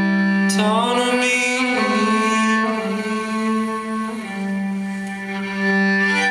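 Live instrumental music: held, bowed string notes over a steady low drone, with one note sliding upward about half a second in. These are the closing bars of the song after the last sung line.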